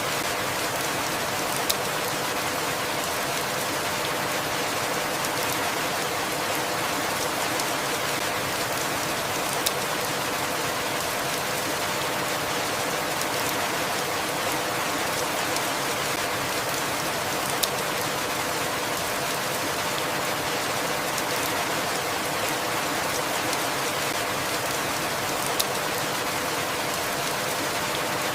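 Steady rain falling, an even hiss. A sharp tick recurs about every eight seconds, four times.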